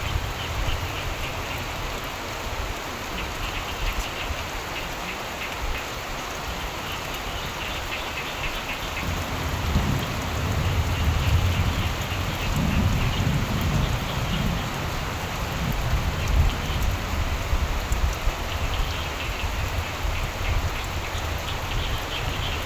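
Steady rain falling, with a low, rolling rumble of distant thunder that swells up about nine seconds in and dies back a few seconds later.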